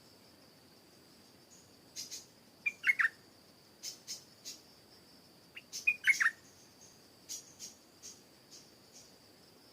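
Stripe-throated bulbul giving two short, loud phrases about three seconds apart, with a scatter of short, sharp high chips around and after them. A faint, steady high-pitched tone runs underneath.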